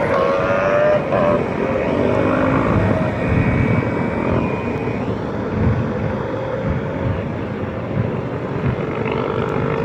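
Many motorcycle engines running together, a steady dense drone with engine pitches that shift up and down.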